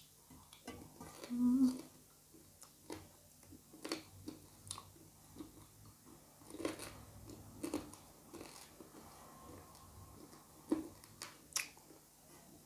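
Close-miked chewing of chicken curry and rice eaten by hand: irregular wet smacks and small clicks of the mouth. About a second and a half in there is a short low hum of the voice.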